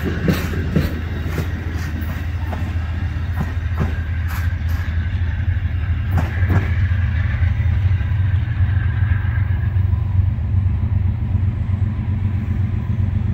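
Amtrak passenger train's wheels clicking over rail joints as its last cars pass and pull away; the clicks die out about halfway through. A steady low rumble runs underneath and grows a little louder near the end.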